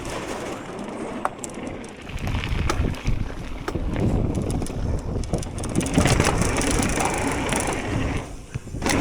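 Propain electric mountain bike riding down a dirt trail: tyres crunching over dirt and rock, with sharp knocks and rattles from the bike over bumps.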